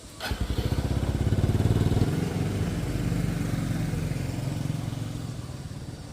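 Motorcycle engine starting with a click and pulling away, loudest about one to two seconds in, then gradually easing off.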